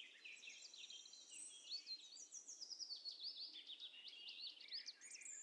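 Faint birdsong: many quick, high chirps and trills, several a second.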